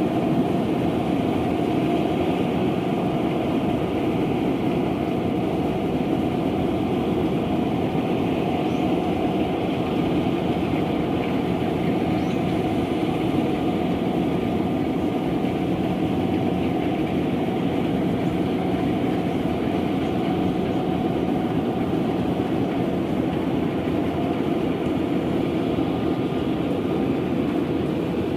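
Rice combine harvester running steadily under load, a continuous loud machine noise with no breaks.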